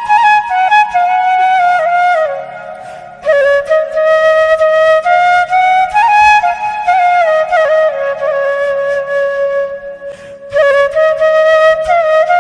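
Background music: a flute playing a slow, gliding melody in phrases, with short pauses about two to three seconds in and again near ten seconds.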